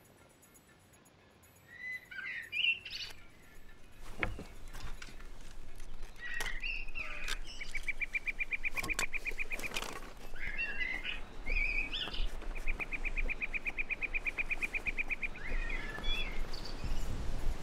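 Woodland birdsong: several birds chirping, and one bird repeating a fast, even trill of identical notes for about three seconds, twice. A few sharp clicks sound among the calls.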